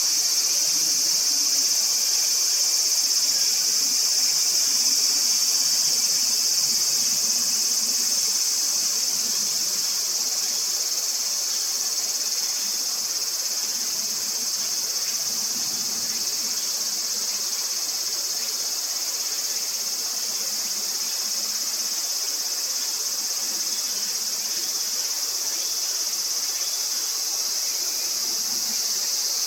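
Steady chorus of insects shrilling, a dense high-pitched whirr with no pauses.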